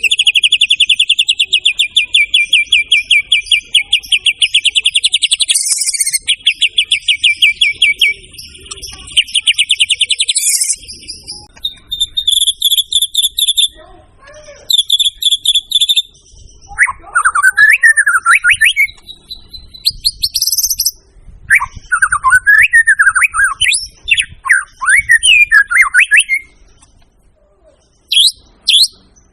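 White-rumped shama (murai batu) in full song. It opens with a long, fast, rattling trill lasting about ten seconds, then gives short bursts, then loud, varied whistled phrases that sweep up and down, and ends with a few sharp upward notes.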